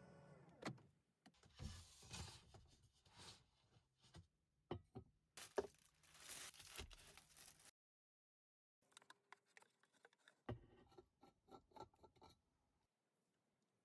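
Faint, scattered clicks, knocks and rustling, like small objects being handled. The sound cuts to dead silence for about a second partway through, then more faint clicks follow.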